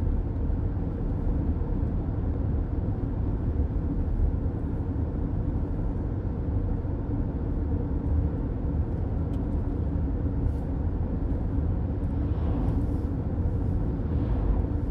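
Steady road noise inside a car cruising on a highway: a low, even rumble of tyres and engine.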